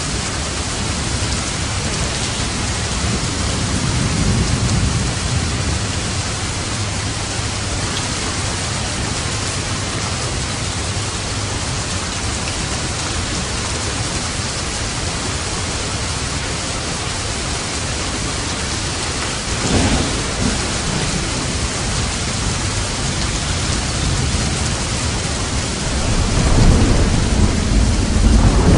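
Steady heavy rain with rolling thunder: low rumbles swell about four seconds in, briefly near twenty seconds, and build again near the end.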